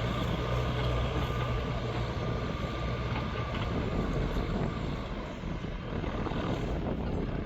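New Holland TL100 tractor's diesel engine running steadily under load while pulling a plow through hard ground; the engine's low hum eases a little just past halfway.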